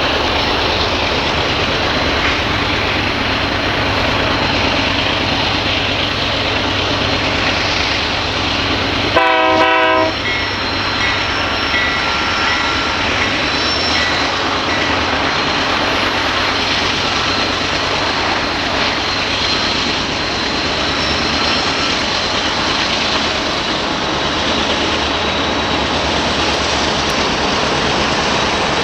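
Loaded coal train passing, with a steady rumble of wheels on rail and the drone of diesel locomotives working upgrade. A short locomotive horn blast sounds about nine seconds in.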